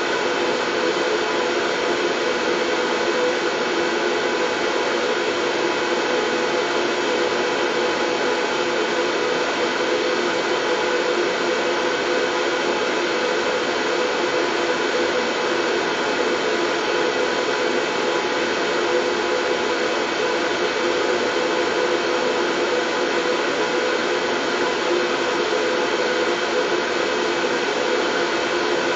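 Steady, unchanging white noise for lulling a baby to sleep, fullest in the low-middle range, with a faint steady hum in it.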